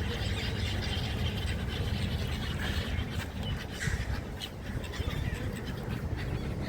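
Gulls calling in short, faint calls over a steady low rumble.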